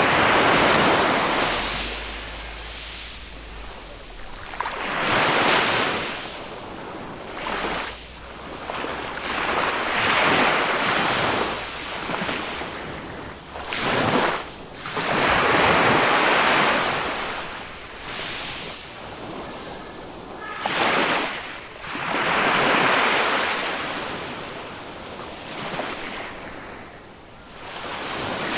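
Small waves of a calm Mediterranean sea breaking and washing up the beach, the surf swelling and falling away about every five seconds.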